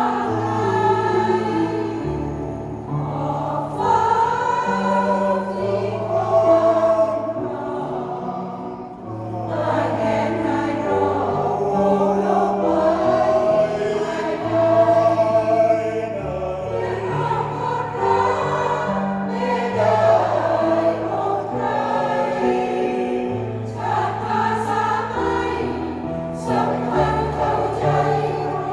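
A senior choir singing a song in harmony, the sung phrases moving over held low notes.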